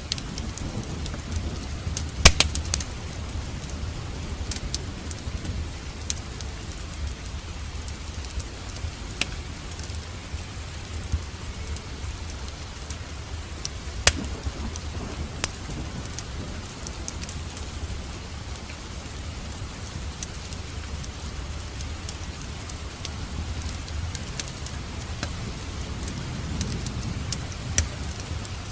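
Steady rain with a wood fire crackling: sharp pops scattered throughout, the loudest about two seconds in and another near fourteen seconds, over a low rumble.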